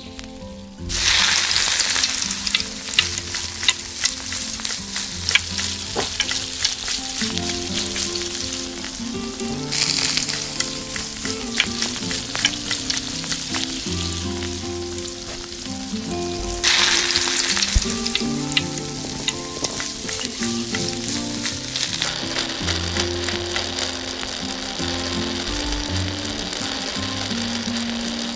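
Food sizzling and crackling in hot oil in a tiny clay pot. The sizzle starts suddenly about a second in as ingredients hit the oil, and flares up again near ten seconds and about seventeen seconds in as more go in.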